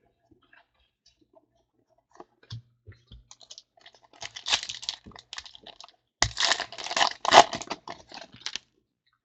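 Trading-card packs being handled: wrappers torn and crinkled and cards shuffled, with light clicks. It starts faint and grows to its loudest, densest crinkling from about six seconds in.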